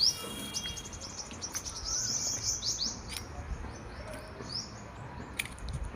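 Small birds chirping: a quick run of short, high, upward-sliding notes, thinning out after the first half.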